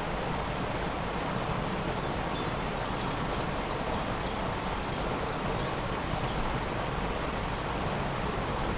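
Steady rushing noise of a waterfall. From about three to seven seconds in, a small bird calls a run of about a dozen short, high, falling notes, about three a second.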